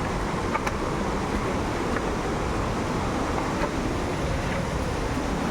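Waterfall: a steady rush of falling water, heavy in the low end.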